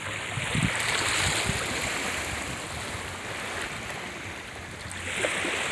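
Ocean surf washing on a beach, a steady rush of water that swells about a second in and eases off later.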